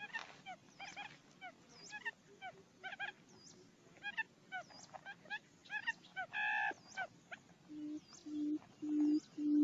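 Quail decoy call recording: many short chirping bird notes, then from about eight seconds in a series of low hooting booms, roughly one every half second or so, that grow steadily louder, like the booming call of a female buttonquail.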